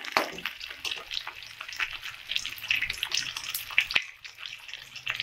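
Sliced onions and green chillies sizzling in hot mustard oil in a metal kadai, while a metal spatula stirs and scrapes them against the pan with frequent light clicks. There is one sharp clink about four seconds in.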